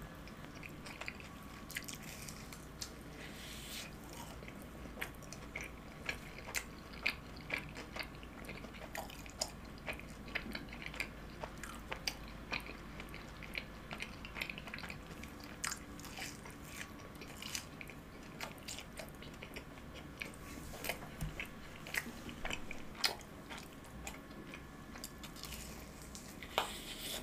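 A person chewing fried cheese balls, with a steady string of small sharp mouth clicks and crackles; a fresh bite near the end.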